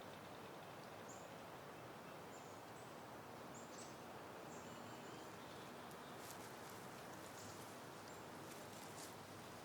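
Soft, steady wind noise outdoors among garden plants, faint throughout. A few short, high bird chirps come now and then, and light crackly rustles of leaves and petals are heard in the second half.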